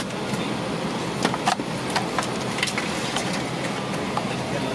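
Steady airliner cabin noise, a constant rush of air, with scattered sharp clicks and knocks, about half a dozen of them, heaviest between one and three seconds in.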